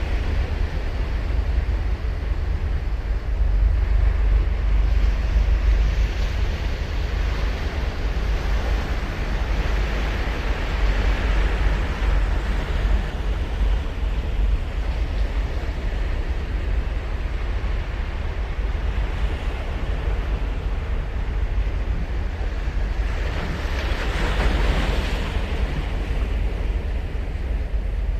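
Ocean surf breaking and washing onto the beach, swelling up and dying away every several seconds, over a steady low rumble of wind on the microphone.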